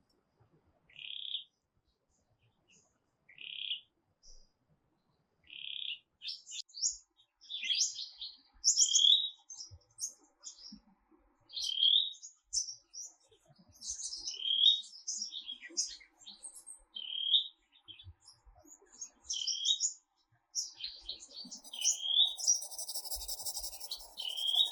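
Birds chirping: a few separate chirps a couple of seconds apart, then a busier run of overlapping chirps and song notes. Near the end a brief hissing noise joins in.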